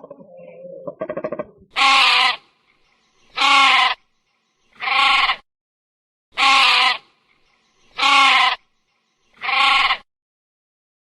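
Sheep bleating: after some softer sounds in the first second and a half, six loud bleats of about half a second each, evenly spaced about a second and a half apart.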